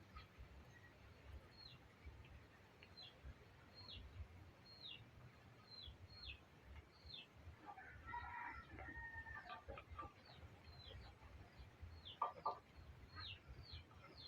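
Faint, repeated high peeps from a chicken chick, each a short call falling in pitch, coming every second or so, with a lower, more complex call about eight seconds in.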